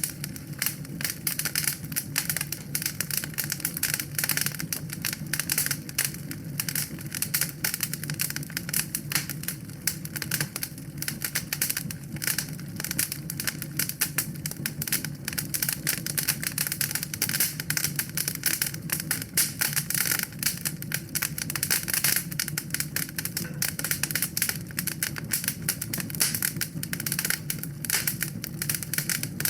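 Wood fire burning in a fireplace, crackling with a dense, irregular stream of small snaps and pops over a steady low rumble.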